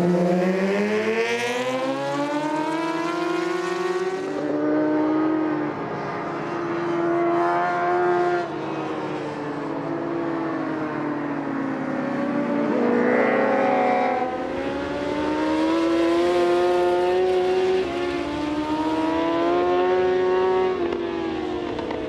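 Superbike racing motorcycle engine at high revs, its pitch climbing and then dropping sharply at each gear change, about every four seconds.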